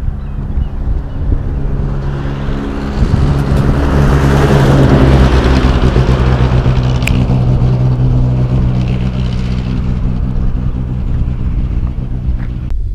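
A motor vehicle engine runs with a steady low hum, under a rushing noise that swells about three seconds in and slowly fades toward the end. A sharp tick comes about seven seconds in.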